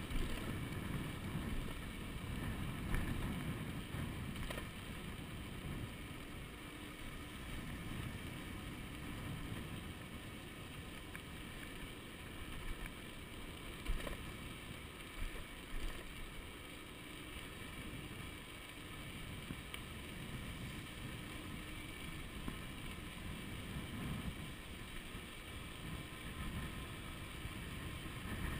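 Wind buffeting the microphone of a camera on a moving electric bicycle, a steady low rumble, with a faint steady whine from the 48-volt 1000-watt rear hub motor and a few knocks from the ride.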